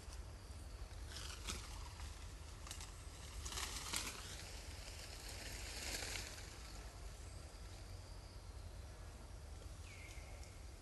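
Quiet outdoor ambience with a few brief rustling noises, the loudest about four seconds in, and a short falling call near the end.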